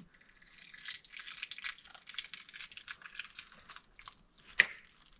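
Plastic packaging crinkling and rustling as it is handled, with one sharp click about four and a half seconds in.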